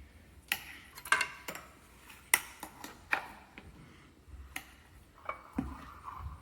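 Scattered light clicks and knocks of a spoon and mugs being handled, about a dozen at irregular intervals, some with a short ring.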